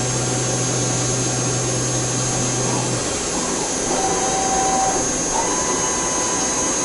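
Machine tool cutting a metal bar: a steady mechanical noise. A low hum stops about halfway through, and thin whining tones come and go near the end.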